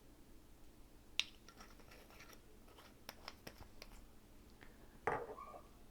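Faint scattered clicks and light taps of kitchen utensils being handled while soy sauce is spooned onto the fish, with a short, slightly louder sound about five seconds in.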